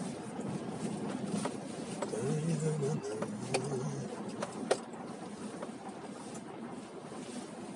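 Car running, with steady engine and road noise and a few sharp clicks; a brief low hum rises and fades about two to four seconds in.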